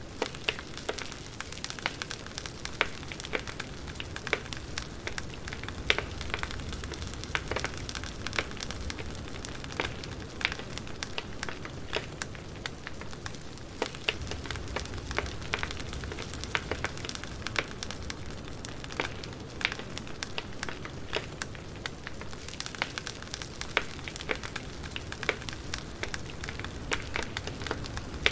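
Campfire crackling: a steady hiss with frequent, irregular sharp pops and snaps of burning wood.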